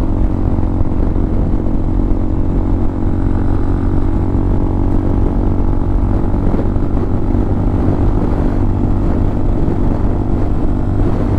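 Hawk 250 motorcycle's single-cylinder engine, fitted with a Motocults stage 4 kit, running at a steady cruise while riding, with heavy wind buffeting the microphone.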